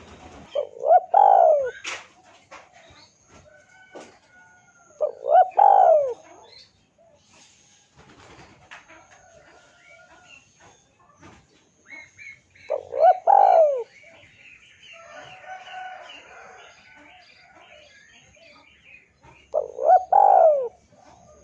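Spotted dove (tekukur) cooing: four phrases, each a few quick coos ending in a longer falling note, repeated about every six to seven seconds. Faint chirping of other small birds between the phrases.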